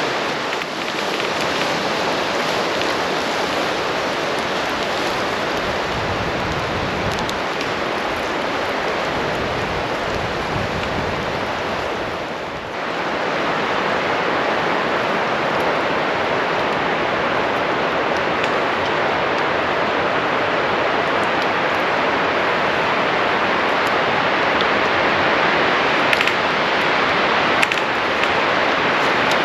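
Steady rushing noise with a brief dip about twelve seconds in, and a couple of faint clicks near the end.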